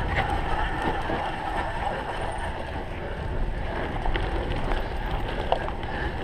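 Cyclocross bike being ridden fast over rough ground: steady wind rushing over the microphone and a low rumble, with scattered short clicks and knocks from the bike rattling.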